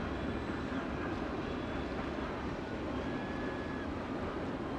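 Freight train tank cars rolling along the track: a steady rumble of wheels on rail, with a few faint high tones coming and going.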